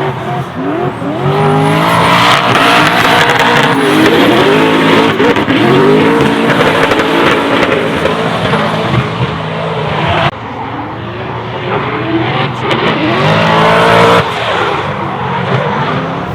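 Toyota Supra MK4's turbocharged 2JZ straight-six revving hard and repeatedly rising and falling in pitch through a drift, with tyres squealing. About ten seconds in the sound drops suddenly, then the engine climbs again before falling off near the end.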